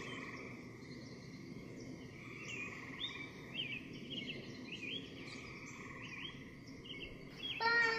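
Small bird chirping, a short rising note repeated about twice a second from about two seconds in, over a steady high hum.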